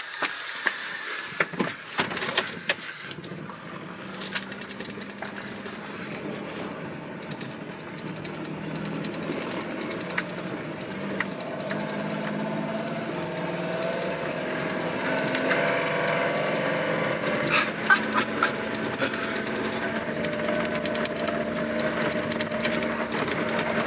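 Old truck's engine running as the truck gets under way and picks up speed, with scattered clicks and rattles, mostly in the first few seconds; the engine is burning off a load of bad fuel and smoking. Heard from inside the cab, growing steadily louder.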